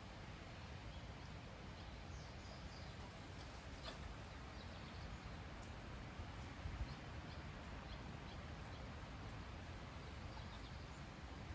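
Quiet rural outdoor ambience: a steady low rumble with faint, scattered bird chirps, a sharp click about four seconds in and a couple of soft knocks a little later.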